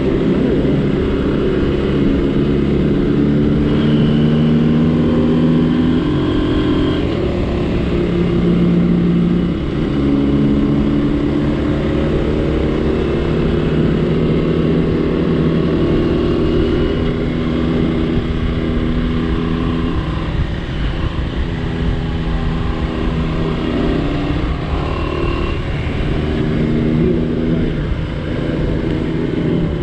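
Small vintage Honda motorcycle engine, a 1972 CL 100 single-cylinder four-stroke, running on the road under way. The engine note steps down and climbs again a few times, as with gear changes, over the rumble of wind on the microphone.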